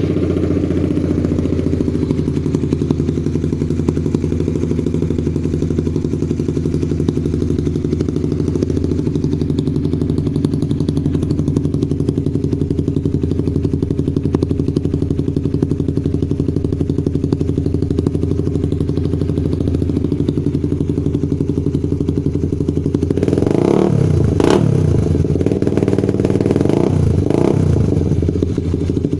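Suzuki GSX 150's single-cylinder engine idling steadily through an aftermarket racing exhaust, just after starting. Near the end it is revved in a few quick throttle blips, each rising and falling in pitch, then drops back to idle.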